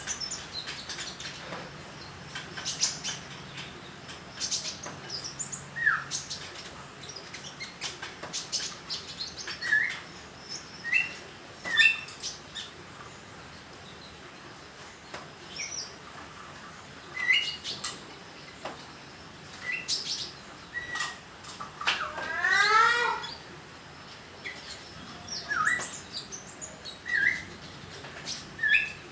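Young sunbird (kolibri ninja) giving scattered short, high chirps and slurred notes, with one longer run of quick notes about three-quarters through: a juvenile practising its song.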